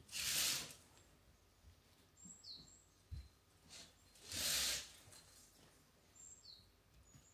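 Small birds chirping outside, a few faint, short, high notes that slide downward, a couple of seconds apart. Two brief louder rushing noises, one near the start and one about halfway through, are the loudest sounds.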